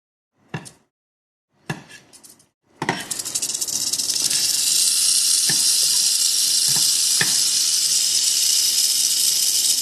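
Mojave rattlesnake rattling its tail in warning: two short buzzes, then a loud continuous rattle from about three seconds in, with a few light clicks over it.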